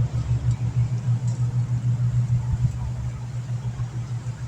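Steady low hum of an engine running, with a faint knock about two and a half seconds in.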